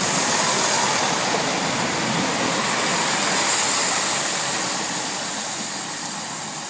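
Class 165 Turbo diesel multiple unit running into the platform and slowing, its engine sound under a strong, steady high hiss that eases off gradually near the end.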